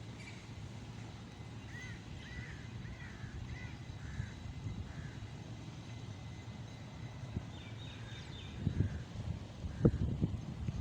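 A bird calls a run of about six short, arching notes, then a few higher chirps follow several seconds later, over a low rumble of wind with a couple of thumps near the end.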